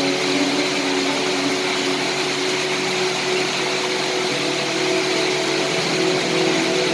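Steady rain hiss. Beneath it, soft held notes of background music change slowly.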